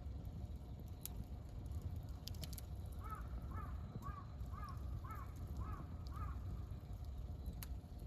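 A crow cawing six times in quick succession, about two calls a second, over the low steady noise of a wood campfire with a few sharp crackling pops.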